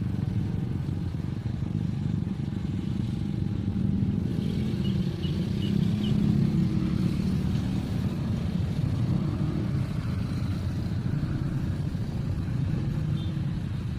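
Steady low engine rumble of a vehicle, running evenly without revving up or down.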